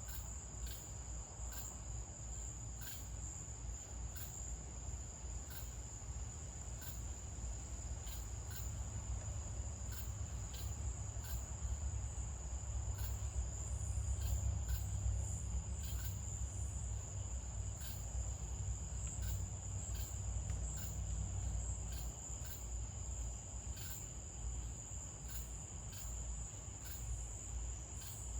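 Crickets calling: a steady high-pitched trill with regular ticking chirps over it, about one and a half a second. A low rumble runs underneath and swells about halfway through.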